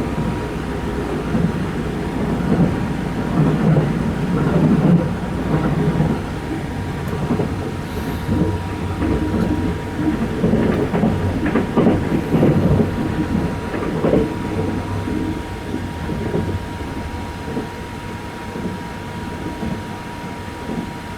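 A Sunrise Izumo 285-series sleeper train running at night, heard from inside the car: a continuous rumble with rail clatter and a faint steady high hum. It is loudest in the first half and eases off near the end.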